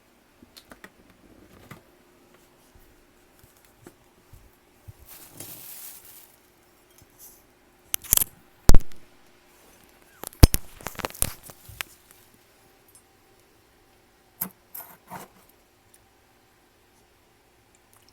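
Freezer frost being handled and crunched close to the microphone: scattered crisp clicks and crackles, a short hiss about five seconds in, and the loudest crunches about eight to twelve seconds in, with a few more near fifteen seconds.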